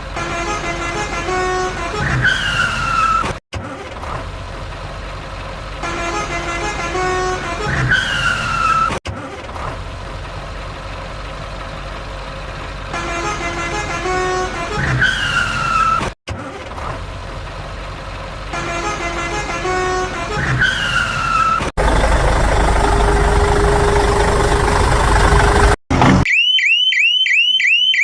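Vehicle sound effects cut together: the same few-second clip of an engine with a falling horn-like tone repeats four times, separated by abrupt cuts. This is followed by a steady, noisy engine-like stretch and then a quick run of repeated toots near the end.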